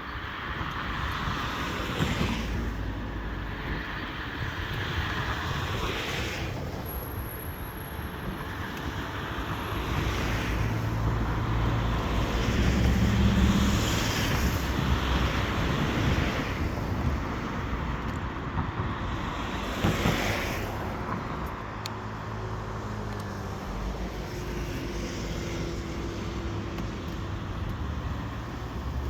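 Road traffic on a busy road: cars passing one after another, each rising and fading, with the loudest pass, a low engine rumble, about halfway through.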